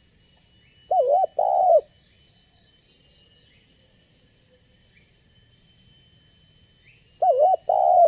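Spotted dove (tekukur) cooing: two short two-part coo phrases, one about a second in and another near the end, with faint steady high-pitched tones in the background.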